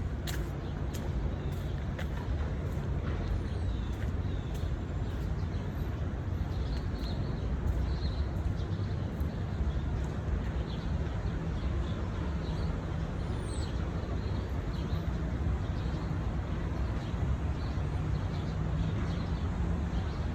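Steady low rumble of distant city traffic, with faint short bird chirps scattered through it.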